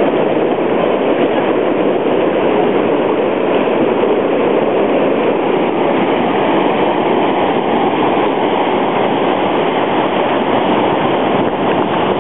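The Colorado River's rushing water makes a loud, steady rush that does not let up.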